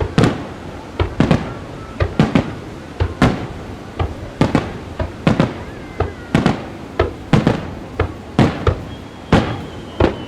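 Aerial fireworks shells bursting in quick succession, sharp bangs about two a second, each trailing off in an echo. Faint whistling tones sound under the bangs in the later part.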